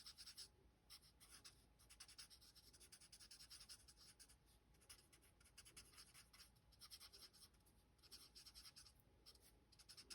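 Faint, rapid scratching of a Stampin' Blends alcohol marker tip working in little circles on paper, blending the colour in. The strokes come in short spells separated by brief pauses.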